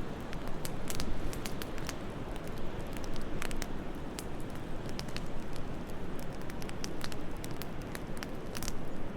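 Wood fire in a fireplace crackling, with frequent sharp, irregular pops over a steady low rush of wind.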